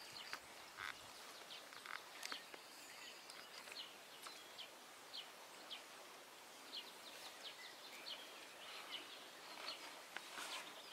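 Faint outdoor background with scattered short, high-pitched bird chirps.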